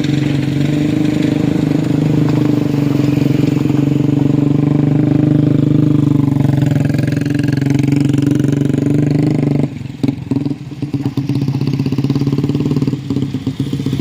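A motor vehicle engine running loud and steady. About ten seconds in it dips and stutters briefly, then picks up again.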